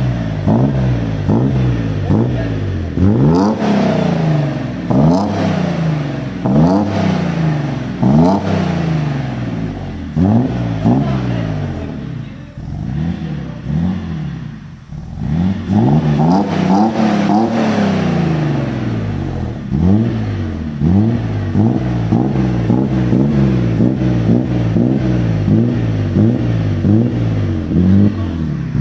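Mercedes W201 with an M103 3.0-litre straight-six, exhaust note as the engine is blipped again and again, each rev rising quickly and falling back, on its first start. About halfway through it settles briefly to a lower, quieter idle before the revving picks up again.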